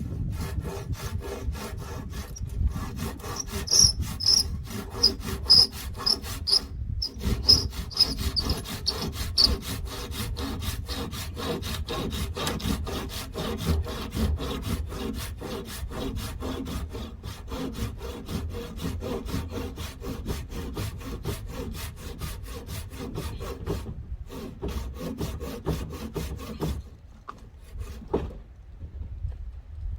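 Hand saw cutting through wood in quick, even back-and-forth strokes, with two short breaks, stopping near the end.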